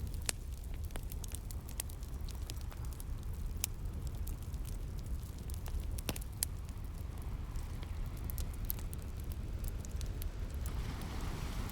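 Wood fire crackling with irregular sharp pops, over a steady low rumble of surf; a wave swells and washes in near the end.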